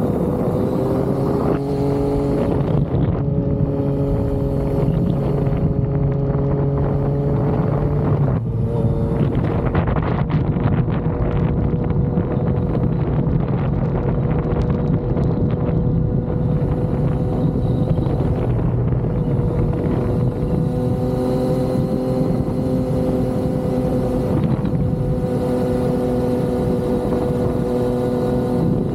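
Yamaha XSR900's inline-three engine running at steady cruising revs while the motorcycle is ridden, with wind rushing over the microphone. The engine note shifts briefly about eight seconds in, then holds steady again.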